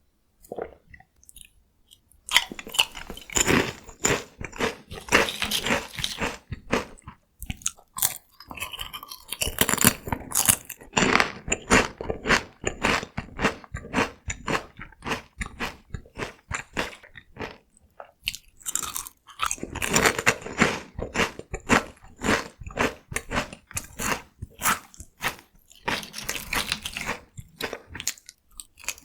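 Close-up crunching and chewing of Kkokkal-cone, crisp Korean corn cone snacks, as one person bites and chews through them: dense crackly crunches with brief pauses between mouthfuls.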